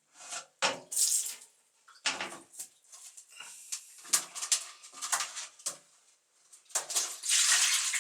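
Water splashing in a washing basin, with irregular knocks and clatter of the basin; a longer pour of water starts near the end.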